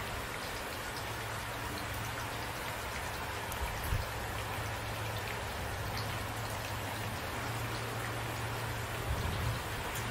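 Steady rain falling, with individual drops hitting a surface, over a steady low rumble. There are two brief low thuds, about four seconds in and near the end.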